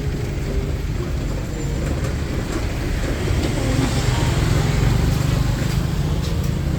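Street traffic: motor vehicles running by as a steady low rumble, growing louder as one passes about four seconds in.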